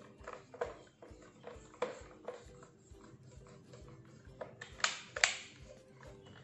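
Handling noises from plastic vacuum-cleaner parts: scattered light clicks and knocks, with two louder scraping rasps about five seconds in, over faint background music.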